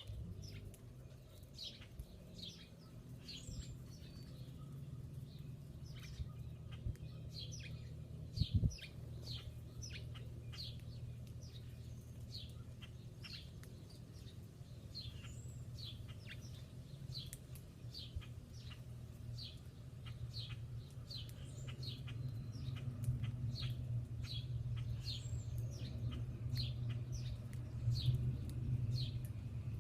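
Small birds chirping: short, sharp, repeated chirps, about one or two a second, over a low steady rumble. A single brief thump comes about eight and a half seconds in.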